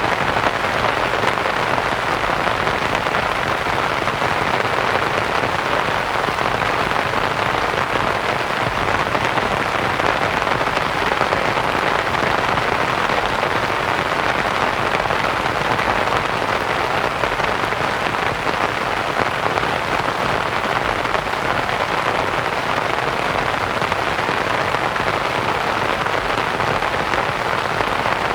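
Steady rain pattering on a canvas tent, mixed with soft white noise, even and unchanging.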